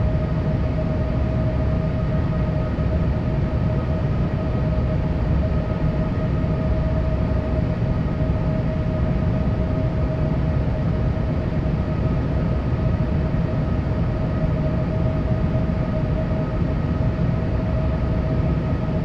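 Steady cabin noise inside a Boeing 787 airliner: a dense low rumble of the engines and airflow with a constant whine over it, unchanging throughout.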